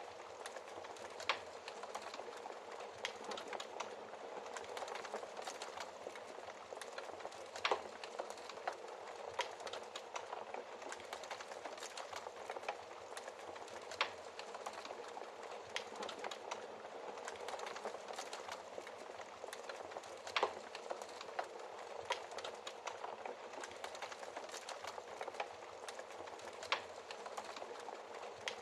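Fireplace fire crackling steadily over a soft hiss, with a louder pop about every six seconds.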